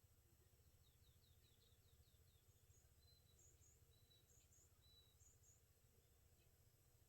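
Near silence with faint birdsong: a quick run of high chirps, then several short high whistles about a second apart.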